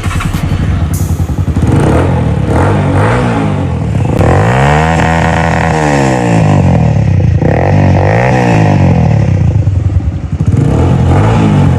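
Small motorcycle engine being revved several times over a steady idle. The longest rev rises and falls about halfway through, with shorter blips later.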